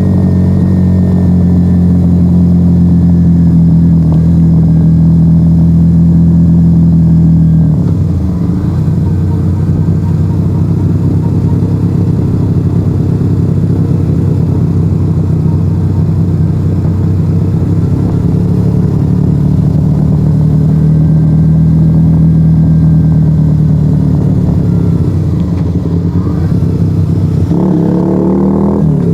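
Yamaha XV125 Virago's air-cooled V-twin running through a straight-piped Turbo Kit exhaust with the dB killers removed, loud and steady at riding revs. The engine note dips briefly about eight seconds in and shifts again near the end.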